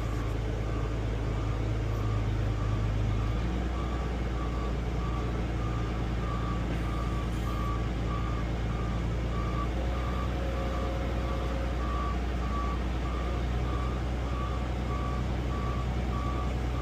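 Heavy vehicle's engine running steadily, heard from inside the cab, under a warning alarm beeping about twice a second.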